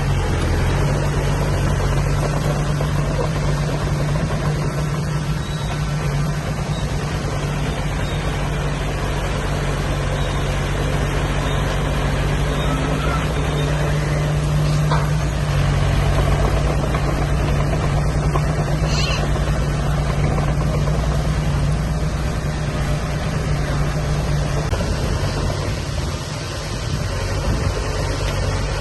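Diesel engine of heavy earthmoving machinery running steadily, with a constant low engine drone throughout.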